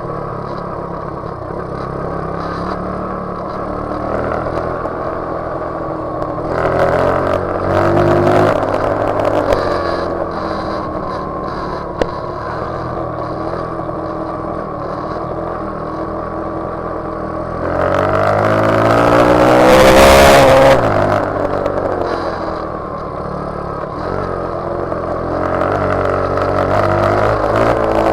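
Motorcycle engines running and revving up and down. About two-thirds of the way in, a vehicle passes close and loud, its pitch falling as it goes by.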